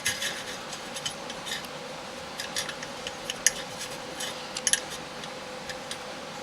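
Small sheet-metal toy gun parts and rods being handled and fitted together, with scattered light metal clicks, ticks and rubbing against a steady low hum.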